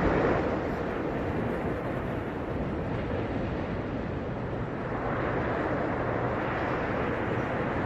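Ocean surf breaking and washing on a beach: a steady rush of waves that eases after the start and builds again from about five seconds in.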